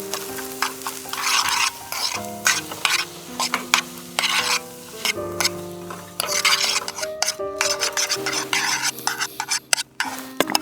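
Food sizzling in a frying pan while it is stirred, with repeated sharp clicks and scrapes of a utensil against the pan. Background music with held notes plays throughout.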